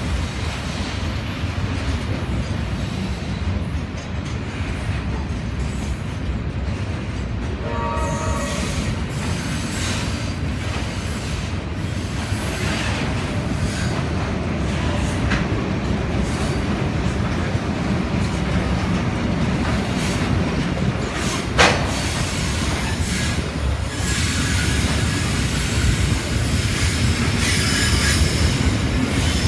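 Freight train of loaded steel-coil flat wagons rolling past, wheels running on the rails with a steady low noise. A brief pitched squeal comes about eight seconds in, and a single sharp knock a little past twenty seconds.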